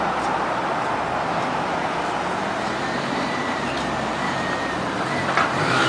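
Dacota motorcycle engine running steadily under a constant rushing noise, with a faint low engine hum in it.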